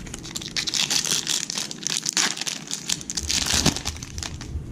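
A trading card pack's wrapper being torn open and crinkled by hand, a dense run of crackling that is loudest in the middle.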